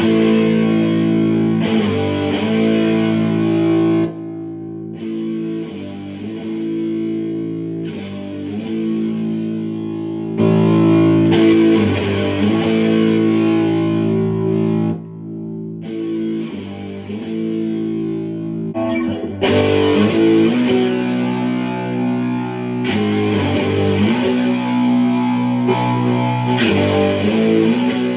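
Electric guitar played through HM-2-style heavy-metal distortion pedals, a Boss HM-2 and a Sound JS HM-5 clone being compared at matched settings. It plays sustained distorted chords and riffs, and the level drops and rises every few seconds.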